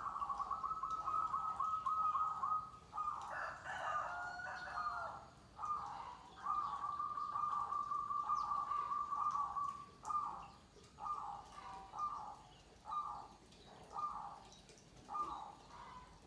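Zebra doves (perkutut) cooing. Long rolling trills and overlapping notes give way, about ten seconds in, to a run of short coos repeated about once a second.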